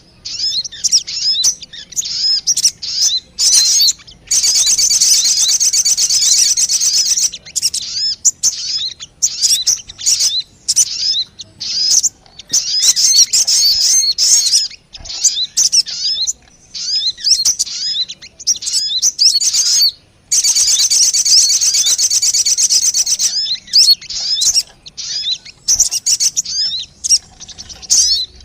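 Sogon bird lure call: a rapid run of high chirps and short whistles, broken by two long, dense trills, one about four seconds in and one about twenty seconds in.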